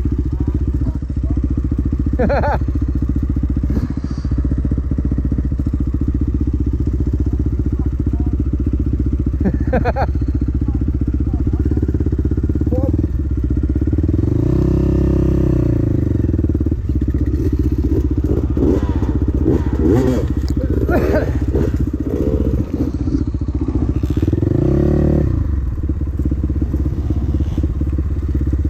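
Dirt bike engine running under way on a trail, its revs rising and falling about halfway through and again near the end, with a few knocks and rattles.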